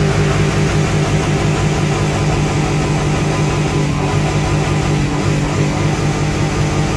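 GMC Sierra's 5.3-litre V8 held on its rev limiter: a steady, high buzzing drone chopped by the limiter's rapid fuel cuts, the 'dirty' rev limiter bounce.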